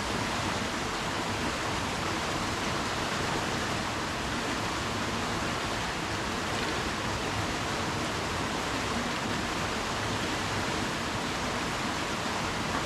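Steady rushing of a bush stream flowing over rocks, an even, unbroken wash of water noise.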